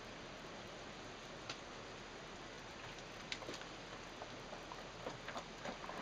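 Faint small splashes and wet clicks of sudsy water as hands wash a cat in a sink, scattered over a steady hiss; they come more often in the last couple of seconds.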